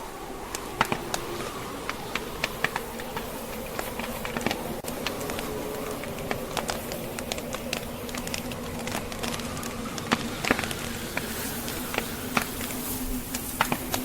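Log fire crackling in a fireplace, with frequent irregular sharp pops and snaps, over the steady noise of a snowstorm wind with a faint wavering low tone.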